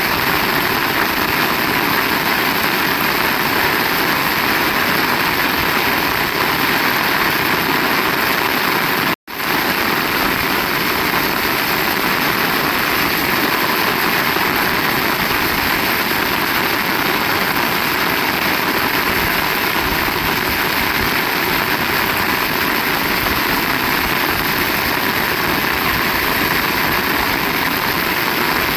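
Heavy rain falling in strong wind, a steady, dense hiss. It cuts out for an instant about nine seconds in.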